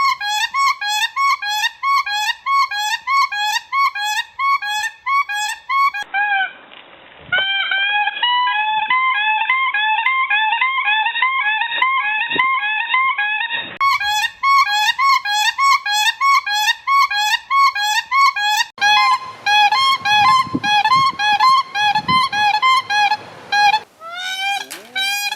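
Siberian cranes calling: a long run of short, clear, pitched notes that rise and fall, about three a second, in several recordings joined one after another.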